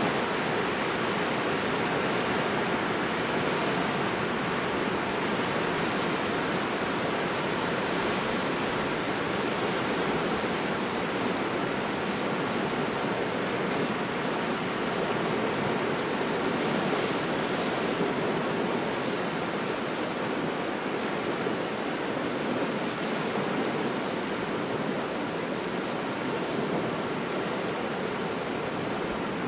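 Waves washing onto a shore in a cold, steady wind: an even, continuous rushing with no single breakers standing out.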